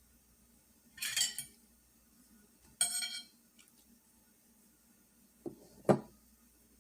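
Utensils and dishes clinking: two short ringing clinks about a second and three seconds in, then two duller knocks a little before the end.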